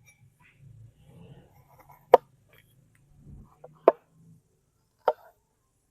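A knife chopping on a cutting board: three separate sharp chops, about a second or two apart, with light scraping and handling between them.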